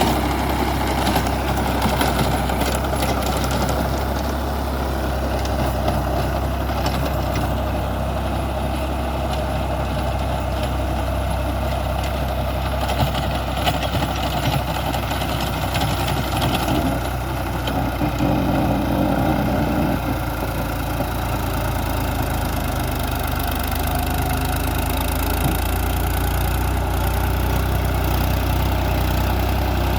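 Tractor engine running steadily with a constant low hum, its note shifting slightly about two-thirds of the way through.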